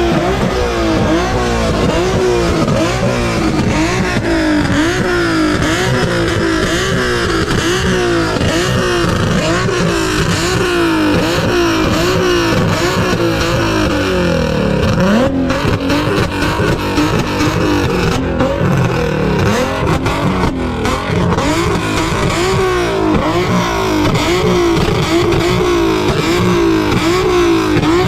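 A car engine revving hard over and over, its pitch rising and falling about once a second.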